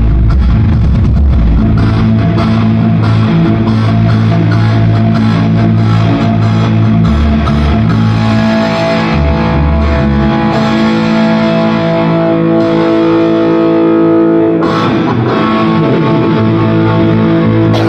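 Loud rock music led by distorted electric guitar.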